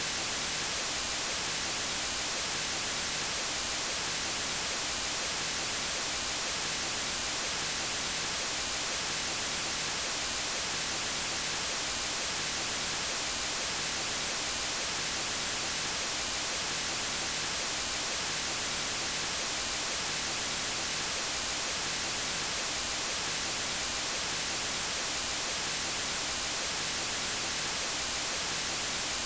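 Steady synthetic white noise: an even, unchanging hiss across all pitches, brightest in the treble.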